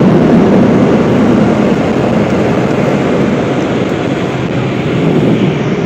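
Automatic car wash machinery running near the exit, a loud steady rushing roar heard from inside the car.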